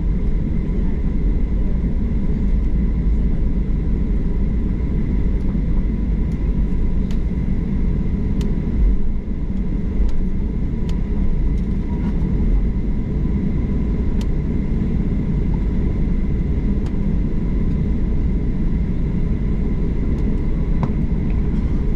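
Steady low rumble inside an airliner cabin, with a faint steady whine over it and a few faint ticks, as the plane rolls on the runway just after landing.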